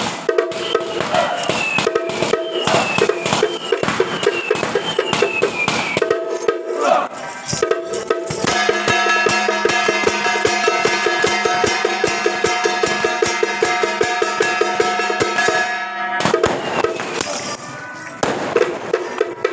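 Temple procession percussion: fast, continuous drumming with clashing cymbals. A short falling tone repeats in the first few seconds, and a steady held pitched tone joins for several seconds in the middle.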